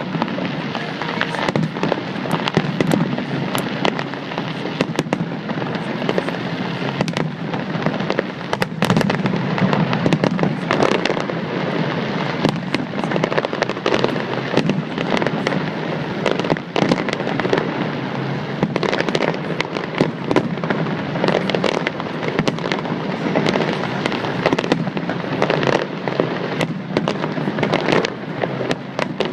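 Fireworks display: a dense, continuous barrage of bangs and crackling bursts, many shells going off close together, heard through a phone microphone.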